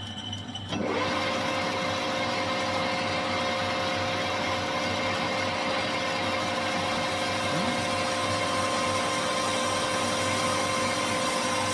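Manual metal lathe starting about a second in, its motor whine rising briefly and then running at a steady pitch, while a radius tool cuts the edge of a metal workpiece. The cut runs smoothly, without chatter.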